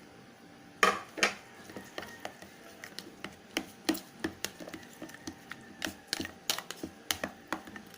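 Spoon clicking and knocking against a bowl while mixing a mayonnaise-based dressing: two sharper knocks about a second in, then irregular light taps, two or three a second.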